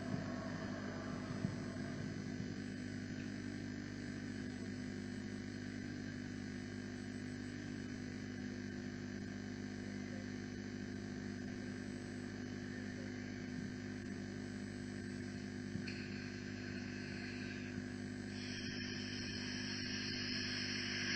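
Steady low electrical hum with faint background hiss, no voice; a higher hiss comes up about three-quarters of the way through.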